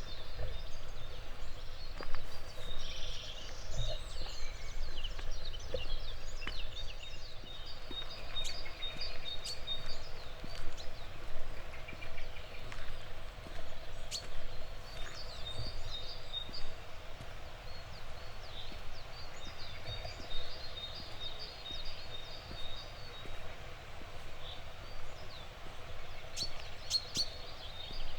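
Several songbirds singing and chirping over a steady outdoor background hiss, with scattered faint low thumps.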